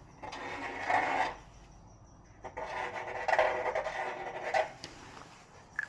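Scraping or rasping of something being worked by hand, in two bouts: a short one near the start and a longer one of about two seconds from the middle.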